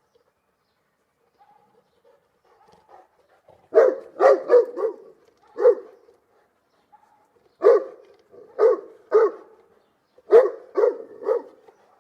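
Saint Bernard barking: about eleven loud barks in three bunches, beginning about four seconds in, with a few faint whines before the first bunch.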